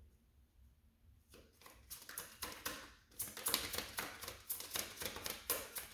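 Tarot cards being shuffled by hand: quiet at first, then a fast run of crisp flicks and slaps that starts about a second in and gets busier and louder from about three seconds in.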